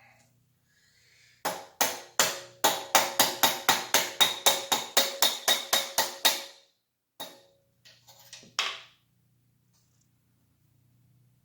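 A hammer tapping on a metal part in a quick run of about twenty strikes, roughly four a second, each one ringing. It stops after about five seconds, and a couple of separate knocks follow.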